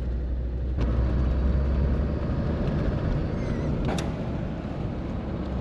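Land Rover Defender 110 Td5 on the move: a steady low diesel rumble with road and tyre noise, which grows fuller just under a second in. A single sharp click comes about four seconds in.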